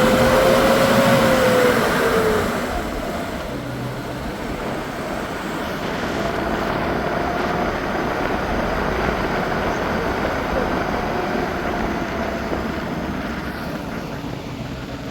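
A motor vehicle driving, with steady engine and road rumble; in the first couple of seconds the engine note rises a little and then drops away.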